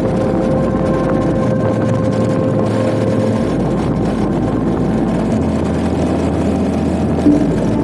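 Motorcycle under way on a road: steady engine and wind noise with no break.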